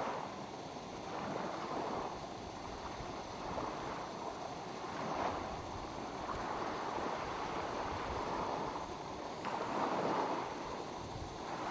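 Small waves lapping on a lake shore, the wash swelling and easing every two to three seconds.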